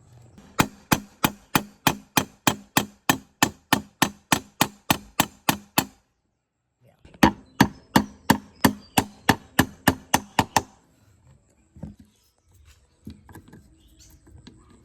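Rapid, evenly spaced knocks, about three a second, in two runs broken by a sudden gap just past the middle, then a few scattered knocks near the end.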